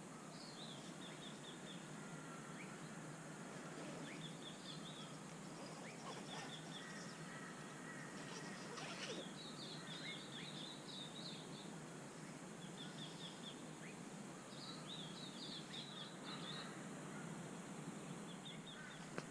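Birds calling: short runs of quick high notes, repeated every couple of seconds, over a faint steady outdoor hiss.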